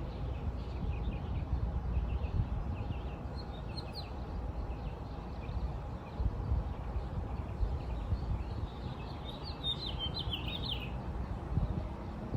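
Small birds chirping, with a louder run of quick chirps about ten seconds in, over a steady low rumble of background noise.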